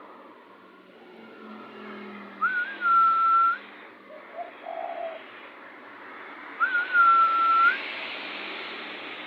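Two loud whistled notes, each a short wavering start held level for about a second, some four seconds apart; between them, short low coos of a spotted dove.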